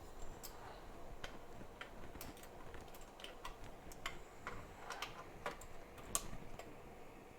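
Irregular light clicks and taps of small hand tools being handled on a workbench, about a dozen scattered through, one sharper click near the end.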